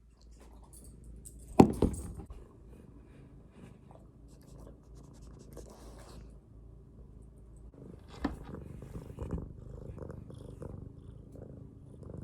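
Domestic cat purring close to the microphone, a steady low rumble, with a sharp knock about a second and a half in and a smaller one about eight seconds in.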